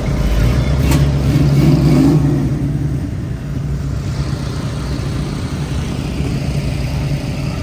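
A car engine running, rising briefly in pitch and loudness over the first couple of seconds, then settling to a steady idle.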